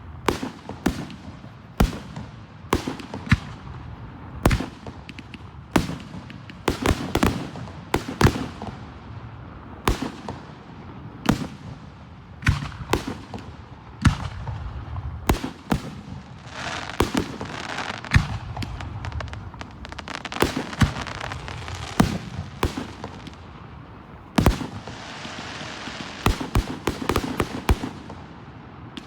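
Aerial fireworks display: a rapid, continuous string of shell bursts going off several times a second, with spells of dense crackling in the second half.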